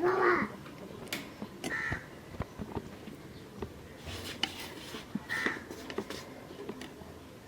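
A bird calling with short, repeated calls about every three and a half seconds, over scattered light clicks and knocks.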